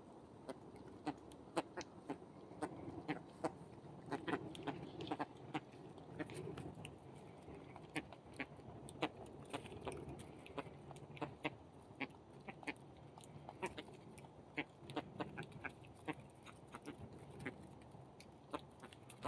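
A flock of birds calling in low, rough clucks and chatter, with many short, sharp, irregular clicks mixed in.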